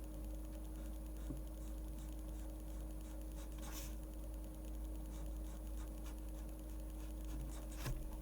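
A pen scratching across paper in short, light strokes while drawing a manga, over a steady low hum. There is a longer, louder stroke about halfway through and a sharp click near the end.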